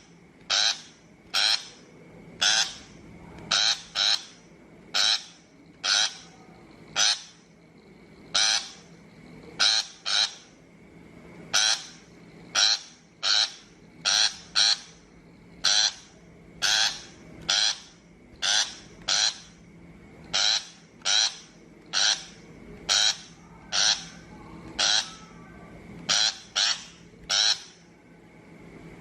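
Shrike giving harsh, grating calls, repeated about once a second and often in quick pairs.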